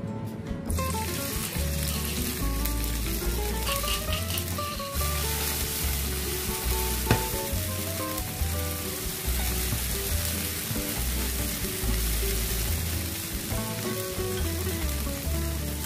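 Crushed chilli and garlic sizzling as they fry in hot oil in a nonstick wok, with a slotted spatula stirring them; the sizzle starts about a second in, when they hit the oil. Background music plays under it, and there is one sharp tap about halfway through.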